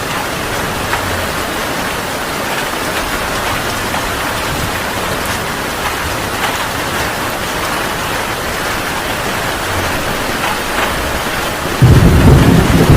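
Heavy rain falling steadily as an even hiss, then a sudden loud rumble of thunder breaking in near the end.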